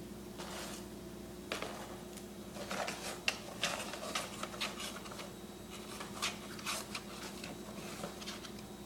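A kitten scrabbling and pawing at a surface: irregular light scratches, taps and rustles for several seconds, over a steady low hum.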